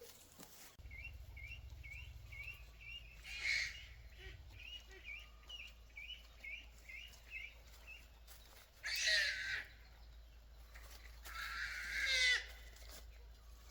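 Farmyard chickens calling: a run of short, high chirps repeating about three times a second, broken by three louder, longer calls, the last about a second long.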